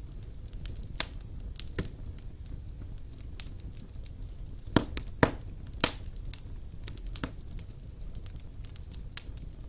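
Wood fire burning in a fireplace: a low, steady rumble of flames with scattered sharp crackles and pops from the burning logs, three louder pops close together about five seconds in.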